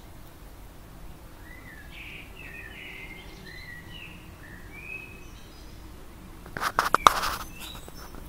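A songbird chirping a run of short calls, then a quick cluster of loud sharp clicks and knocks about two-thirds of the way through.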